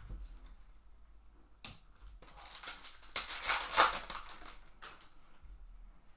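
Trading card pack being handled: a few sharp clicks and, in the middle, a burst of crinkly rustling loudest a little before four seconds in, as of a foil pack wrapper being torn open and cards slid out.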